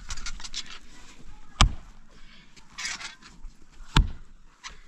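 Two sharp knocks about two and a half seconds apart, with softer scraping and rustling between them, from work on a roof.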